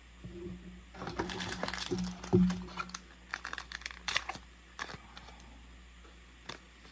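A trading-card booster pack's wrapper crinkling and tearing as it is opened, with a dense run of crackles about a second in, followed by scattered light clicks of cards being handled.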